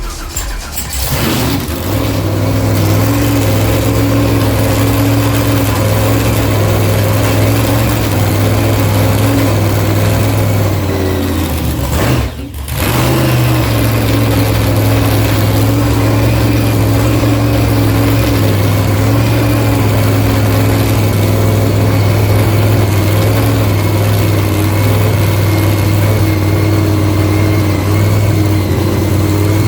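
A vehicle engine running steadily with an even low drone, cutting out briefly about twelve seconds in.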